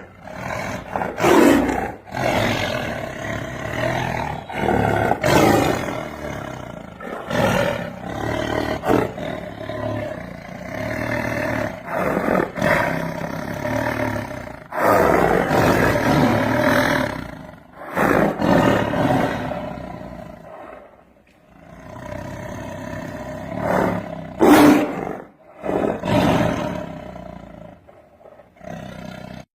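Tiger roaring again and again, a series of loud roars with a short lull about two-thirds of the way through.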